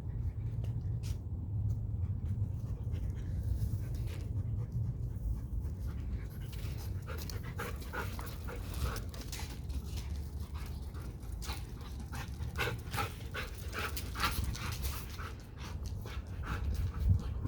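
Dogs panting as they play, a Siberian husky and a French bulldog puppy, with a run of many short sharp sounds starting about six seconds in and thickening toward the end.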